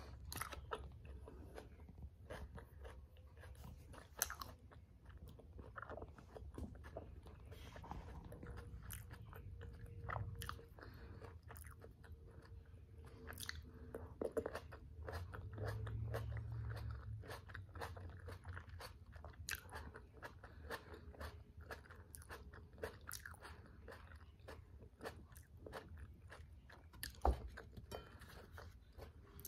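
Close-miked chewing and biting of a black bean and vegetable tortilla wrap with tomatoes: a steady run of small mouth clicks and soft crunches, with one sharper click near the end.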